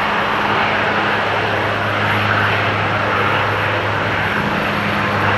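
Aircraft engines running steadily: a constant rushing noise over a steady low hum.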